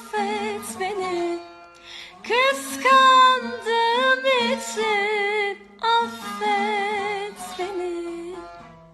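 A girl singing a Turkish pop ballad solo, drawing out long held, wavering notes with vibrato in phrases broken by short breaths. The voice fades away near the end.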